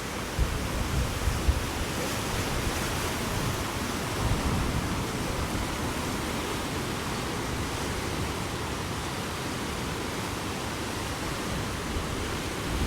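Strong wind blowing over the microphone: a steady rushing noise with low rumbling buffets, heaviest in the first couple of seconds.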